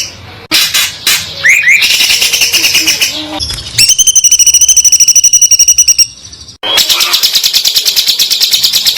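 Songbirds singing rapid, high-pitched song in three back-to-back passages. First comes a fast run of notes with a couple of quick rising sweeps. In the middle is an even, very fast string of ringing notes, about a dozen a second. Near the end comes a dense, buzzy trill.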